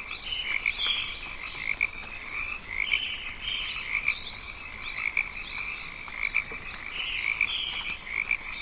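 Dense rainforest animal chorus: many overlapping callers make a pulsing trill, with short rising chirps repeated rapidly above it.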